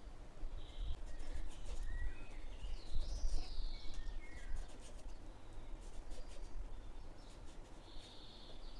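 Birds chirping and calling, with short gliding notes, over a low steady rumble.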